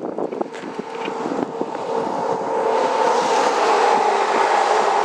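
A passing road vehicle, its tyre and engine noise with a steady whine growing louder over about three seconds, then holding, its pitch dropping slightly near the end as it goes by.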